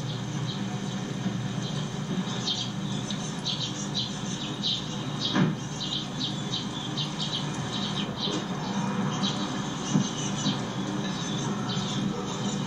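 Short high-pitched chirps, like small birds calling, repeated irregularly over a steady low hum.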